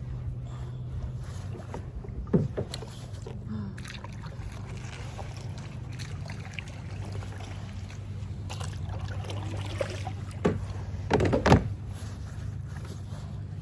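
Kayak on the water during magnet fishing: a steady low hum with sharp knocks and splashes about two seconds in and a louder cluster near the end.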